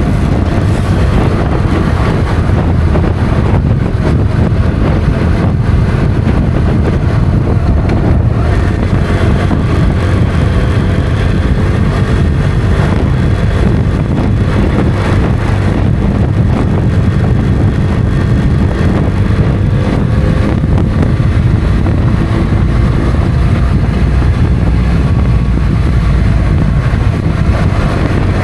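Motorcycle engine running under way, its pitch drifting gently up and down, with heavy wind rush on the microphone.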